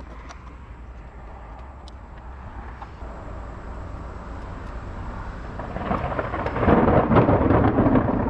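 Rolling thunder from an approaching storm: a low rumble that builds over several seconds and is loudest in the last couple of seconds.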